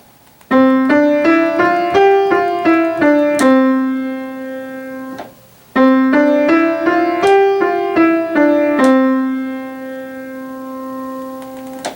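Piano playing a short phrase of quick, clearly struck single notes rising to a held note, then the same phrase again. The first held note is cut off suddenly; the second rings on and slowly fades.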